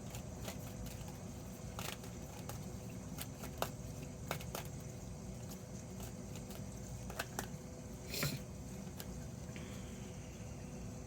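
Tarot cards being handled: scattered soft clicks and taps at irregular intervals, a little louder about eight seconds in, over a steady low hum.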